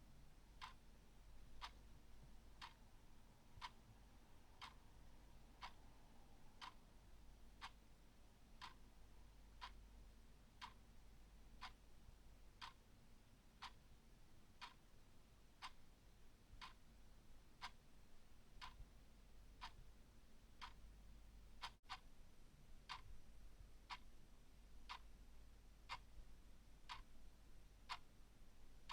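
Clock ticking steadily and faintly, about one tick a second, over a faint low hum.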